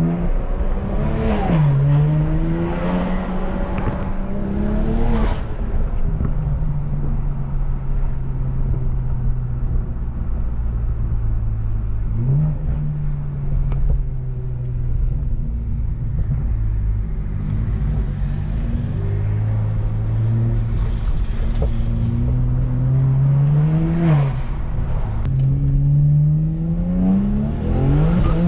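BMW N54 twin-turbo inline-six accelerating through the gears with several upshifts, the engine note climbing and dropping back at each shift. There is a short hiss of released boost at the shifts about one and five seconds in, and a long stretch of steady cruising in the middle.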